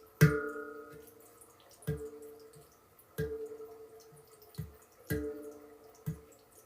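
Handpan drum played slowly, single notes struck one at a time, about six strikes, each ringing out and fading before the next.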